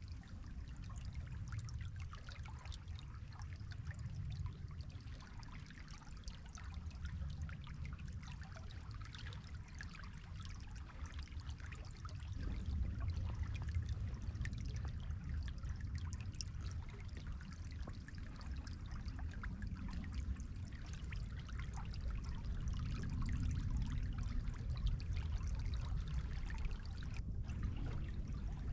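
River water flowing: a steady babble and trickle over a low rumble, growing a little louder about halfway through.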